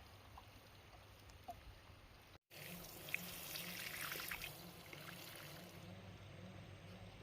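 Water pouring and splashing for about three seconds, with small crackling drops. It starts just after a brief break in the sound and then eases off.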